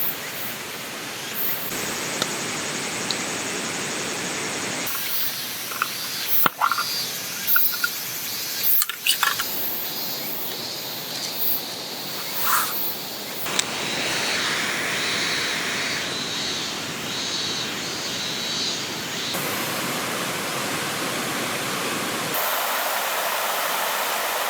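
Steady rushing of a stream running through the forest, with a few small knocks and clicks. The rush changes abruptly in tone several times.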